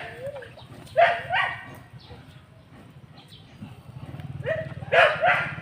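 A dog barking: two short barks about a second in, then three more near the end.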